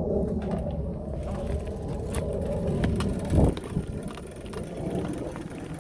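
Bicycle riding over a rough dirt trail: a steady rumble of tyres on the ground with frequent clicks and rattles from the bike, and one heavier thump about three and a half seconds in.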